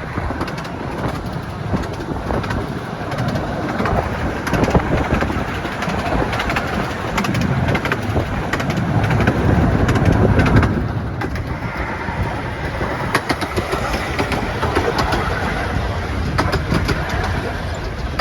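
A 15-inch gauge miniature steam train running, with a steady rumble and scattered sharp clicks, heavier about halfway through.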